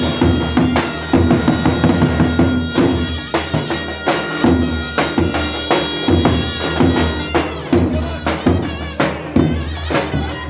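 Live band music in a Turkish folk dance style: a held wind-instrument melody over a steady, driving drumbeat.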